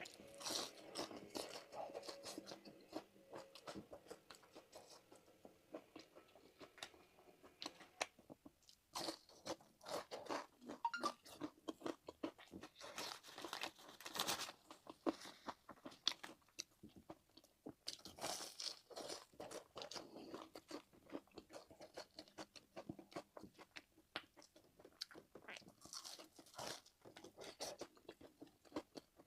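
Close-miked eating: a person chewing and biting fried rice and sausage, with runs of quick wet mouth clicks and smacks, easing off for moments now and then.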